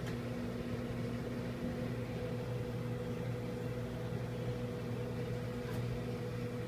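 Microwave oven running, a steady even hum as it cooks a bowl of cake batter.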